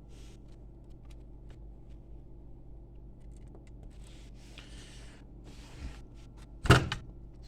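Quiet room tone with a steady low hum, a few faint clicks and soft rustling, then one sharp, loud knock near the end.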